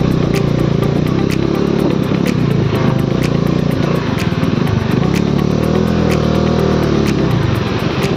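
Motorcycle engine running under way on a rough dirt road, its pitch dipping and picking up again as the throttle changes, with a regular light clicking over it.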